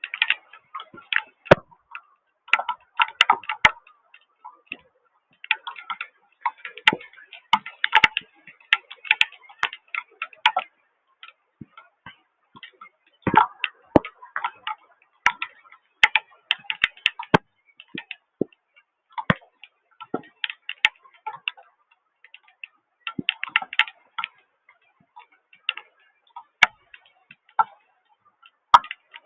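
Raindrops tapping on a hard surface close to the microphone: irregular sharp ticks and taps, some in quick clusters, with short gaps between.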